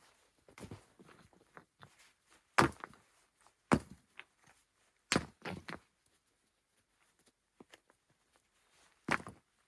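Irregular sharp knocks and thuds: four loud ones spaced one to four seconds apart, with softer clicks and scrapes between them.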